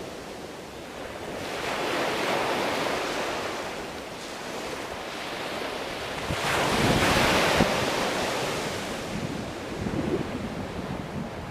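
Sea waves washing onto a shore, the rush swelling and fading as each wave breaks, with the biggest surge about seven seconds in. Low wind rumble on the microphone comes in during the second half.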